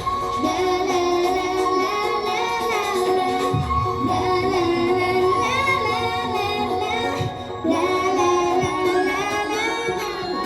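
A female solo singer singing live over a pop backing track.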